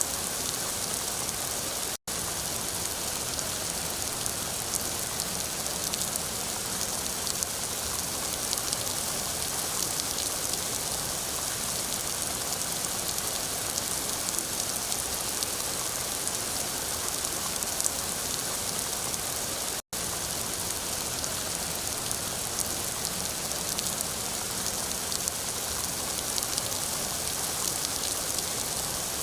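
Rain falling steadily, a dense hiss with the fine patter of individual drops. The sound cuts out for an instant twice.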